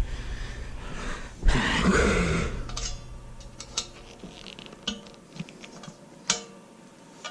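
Hand tools working on a motorcycle exhaust fastener with a T45 Torx bit: a rasping burst about a second and a half in, then a few separate sharp metallic clicks.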